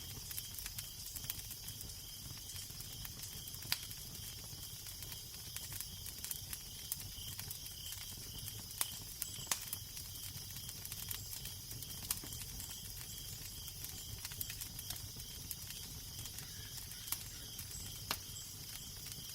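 Crackling fire: a steady hiss dotted with many small pops and a few sharper snaps, over a low wind rumble.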